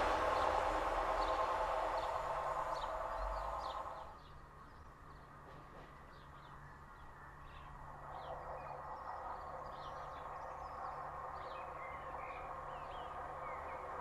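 A TransPennine Express diesel multiple unit running away into the distance, its sound fading over the first few seconds. Songbirds chirp throughout, and from about halfway the faint running sound of an approaching Northern Sprinter diesel unit builds.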